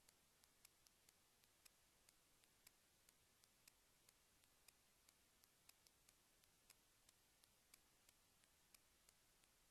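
Near silence with faint, sharp ticks, roughly two to four a second, over a low hiss.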